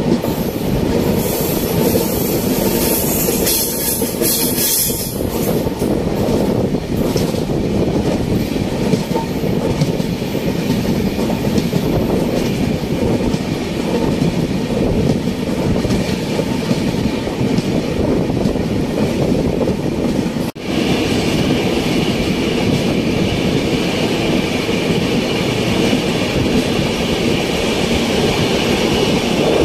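Indian Railways passenger coach running at speed, heard from its open doorway: a steady rumble and clatter of wheels on the rails, with air rushing past. The sound drops out for a moment about twenty seconds in.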